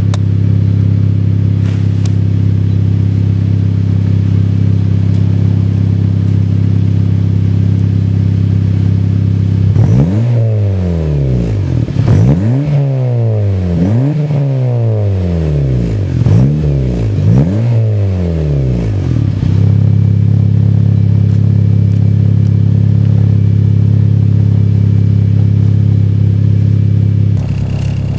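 Turbocharged four-cylinder engine of a 2006 Acura RSX Type-S heard through a Skunk2 MegaPower R 76 mm turbo exhaust. It idles steadily and loudly, then is revved about six times in quick succession midway through, and settles back to idle.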